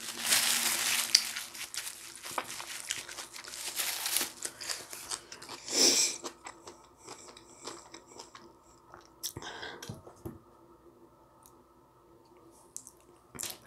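Close-up eating noises of a person chewing spicy ramyun noodles, with wet mouth sounds and small clicks. The sound is densest in the first few seconds and has one louder burst about six seconds in, then thins out to scattered clicks near the end.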